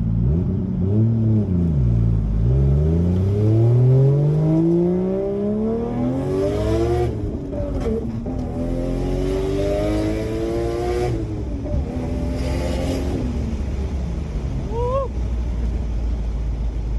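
Turbocharged 1JZ-GTE straight-six of a Toyota Soarer on a custom 3-inch exhaust, accelerating hard through the gears. The revs climb for about five seconds, drop at a shift, climb again, then ease off to a cruise. There is a hiss from the blow-off valve as the throttle closes at each lift-off.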